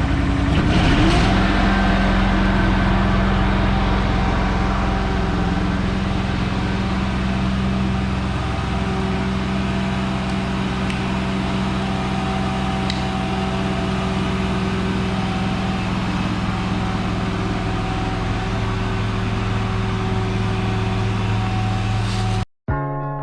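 Carpet steam-cleaning (extraction) machine running steadily, its pitch climbing in the first second as it comes up to speed. It cuts off abruptly near the end.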